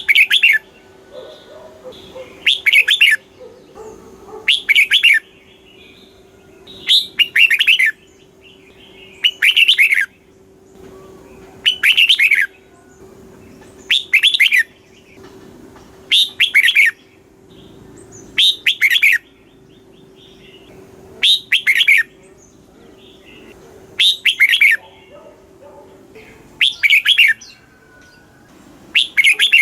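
Red-whiskered bulbul singing: a short, loud, warbling phrase repeated about every two seconds, some thirteen times.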